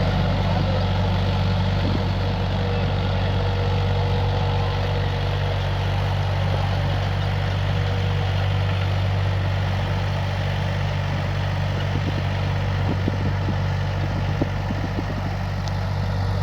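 New Holland 3230 NX tractor's three-cylinder diesel engine running at a steady, even speed, with a few light clicks in the latter half.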